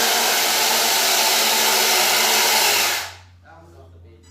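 Radio-controlled pulling vehicle's motor and drivetrain running flat out with a loud, steady whir, cutting off abruptly about three seconds in.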